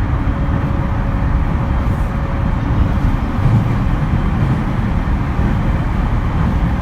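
JR East E231 series electric train running at steady speed, heard from inside the car: a continuous low rumble of wheels on rail, with a faint steady hum that fades about five seconds in.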